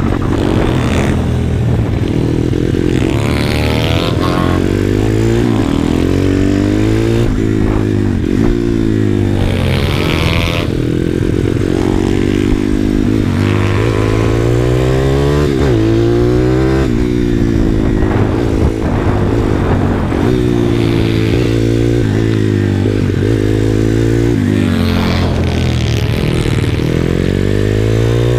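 Pit bike's small single-cylinder four-stroke engine revving hard, its pitch climbing and dropping back again and again as the bike accelerates and slows through corners.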